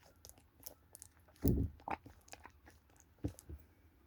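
Foam squishy toys being squeezed and handled: scattered small clicks and taps, with a few louder soft thumps about one and a half seconds in and again past three seconds.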